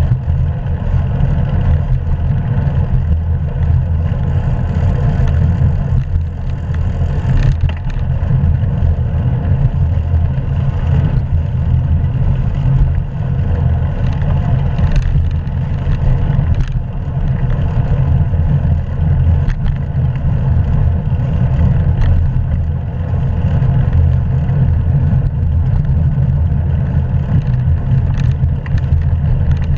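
Steady, loud rush of wind and road noise on a bicycle-mounted action camera's microphone while riding, with a few brief knocks from bumps along the way.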